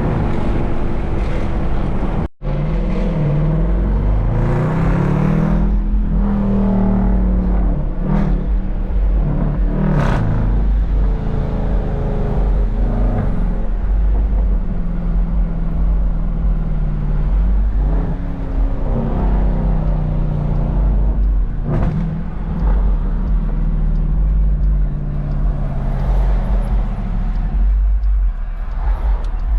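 A car engine and exhaust under way, the pitch climbing as it accelerates and dropping back several times, over a constant deep rumble. The sound cuts out for an instant about two seconds in.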